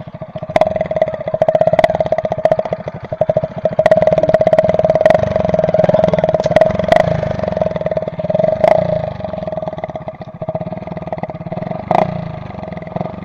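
KTM Duke motorcycle engine running through its exhaust: a steady, rapid firing beat with a constant tone over it. It gets louder about four seconds in, with a few sharp cracks along the way.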